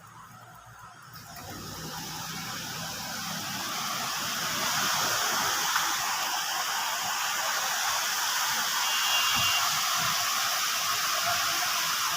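Steady rain falling, a dense hiss that grows louder over the first few seconds and then holds steady.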